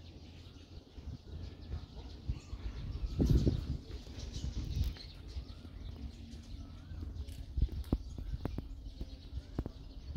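Outdoor ambience with birds chirping faintly over a low rumble on the microphone. The rumble swells loudest about three seconds in, and a few sharp knocks come near the end.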